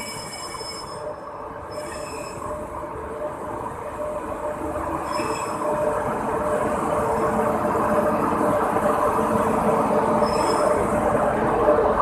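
Indian Railways locomotive and passenger coaches rolling slowly past a station platform, with a steady hum and rumble that grows louder as the train draws level. Brief high wheel squeals come a few times.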